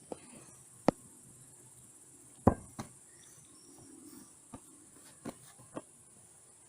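Steady high chirring of crickets, broken by several sharp, irregularly spaced knocks and clicks, the loudest about two and a half seconds in.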